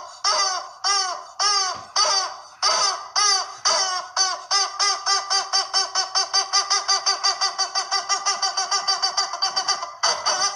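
A squawking, chicken-like call repeated over and over, each one rising and falling in pitch. The calls start about half a second apart and speed up to roughly four a second.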